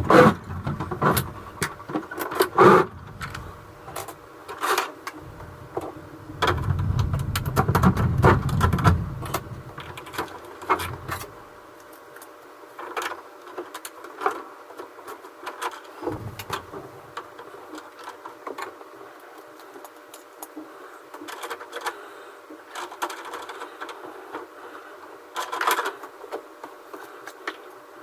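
Irregular clicks, taps and knocks of 3D-printed PLA planks being handled and fitted together, with a stretch of heavier rubbing and thudding a few seconds in, over a steady mechanical hum.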